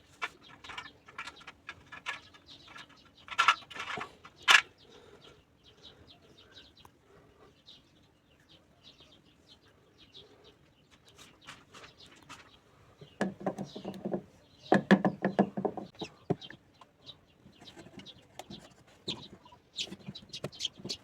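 Birds calling, with scattered light clicks and knocks; the sharpest knock comes about four and a half seconds in, and a denser burst of sound comes around thirteen to sixteen seconds in.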